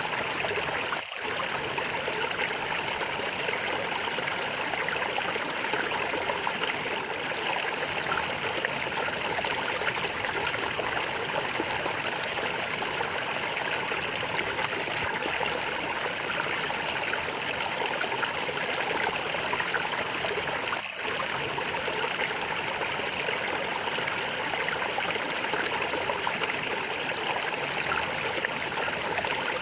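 A stream's water flowing and gurgling steadily, with two very brief dips in level, one about a second in and one about two-thirds of the way through.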